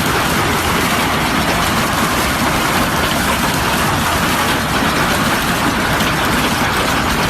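A loud, steady rushing roar with a deep rumble underneath, holding at an even level throughout.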